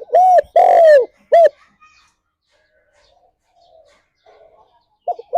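Spotted dove (tekukur) cooing. A four-note phrase comes first: a short note, a longer one, a long arching coo, then a short final note. A second phrase begins near the end.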